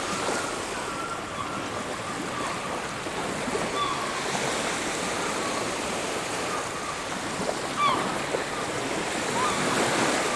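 Surf washing onto a beach, a steady rush of water. Short bird calls come scattered through it, the loudest about eight seconds in.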